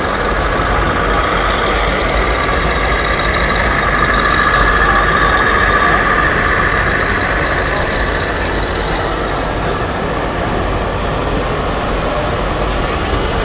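Scale RC model truck running, with its sound module playing a steady truck diesel engine sound.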